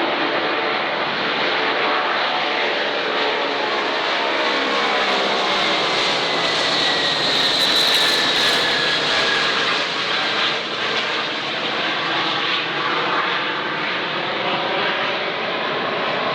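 Antonov An-124's four D-18T turbofan engines at takeoff power as the freighter passes, a loud steady jet noise that peaks about eight seconds in. A whine in it falls steadily in pitch as the aircraft goes by.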